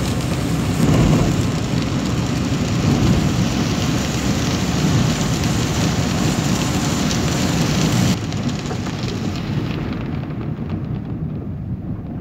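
Heavy rain and wet-road noise heard from inside a moving vehicle: a steady hiss of rain and spray over the low rumble of the vehicle. About eight seconds in, the high hiss drops away suddenly and the sound becomes duller and quieter.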